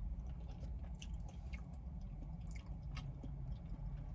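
Close-up chewing of a soft, wet KFC Famous Bowl, with a few short lip smacks and mouth clicks, over a steady low hum.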